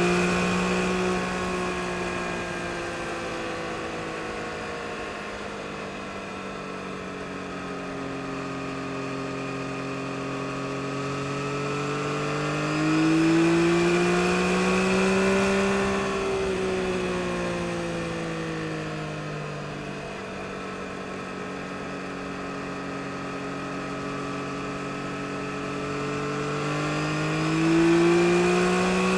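A 2022 Yamaha MT-09 SP's 890 cc inline-three running at speed: its pitch drops and levels off, climbs with more throttle toward the middle, eases off again, and climbs once more near the end.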